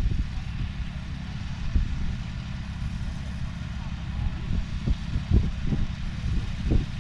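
Low, steady engine rumble of a running tractor, with indistinct voices in the background.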